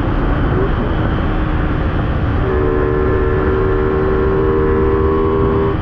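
Yamaha Sniper 155 underbone motorcycle running flat out at top speed, with heavy wind rush on the microphone. Partway through, a steady high engine note holds at constant revs.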